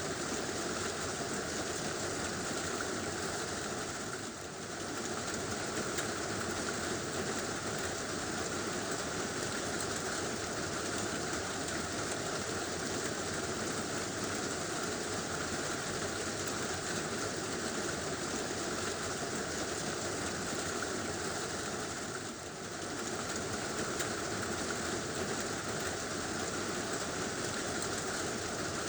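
Heavy rain drumming steadily on a tin roof, a dense even hiss that dips briefly twice.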